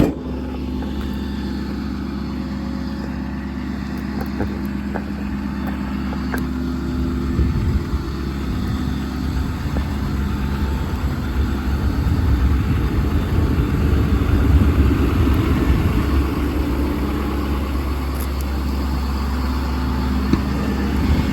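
An engine running steadily, growing louder and rougher for several seconds in the middle before settling back.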